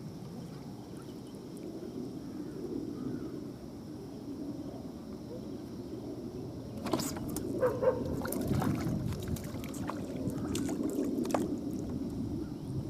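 Wind rumbling on the microphone with water lapping, and a run of sharp clicks and knocks about halfway through.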